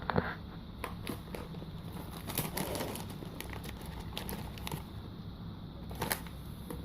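German Shepherds being fed crunchy snacks: scattered crunching clicks and crinkles, a few sharper ones near the start and about six seconds in, over a low steady hum.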